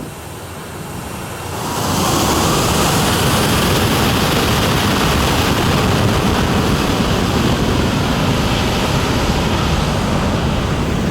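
Jet airliner engines spooling up to take-off thrust: the noise swells sharply about two seconds in, with a faint rising whine, then holds as a loud, steady rush of jet blast buffeting the microphone.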